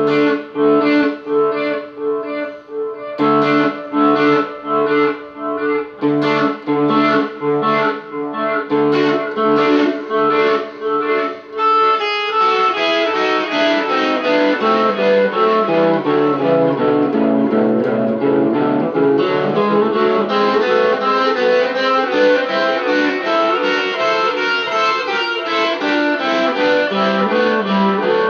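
Guitar playing a rock solo. For about the first twelve seconds it repeats a chord in an even rhythm, then it breaks into fast runs of notes.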